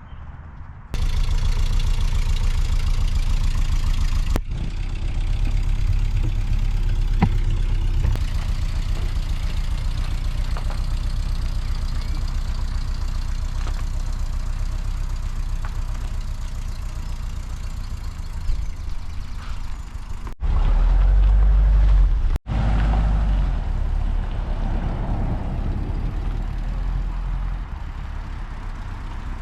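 A car driving, its engine and road rumble steady and low, in several clips joined by sudden cuts; a stretch of about two seconds, some two-thirds of the way through, is louder and deeper.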